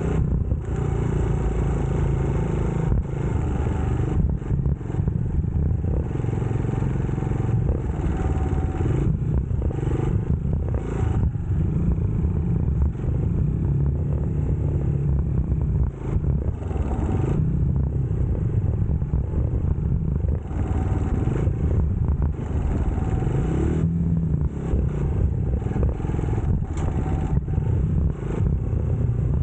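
UM Scrambler X motorcycle engine running under way, with steady wind and road noise. The engine pitch rises and falls a few times as the bike revs and shifts.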